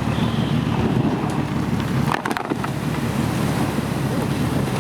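Motorboat engine running under heavy wind buffeting on the microphone, with water rushing past the hull. A brief clatter of knocks about two seconds in.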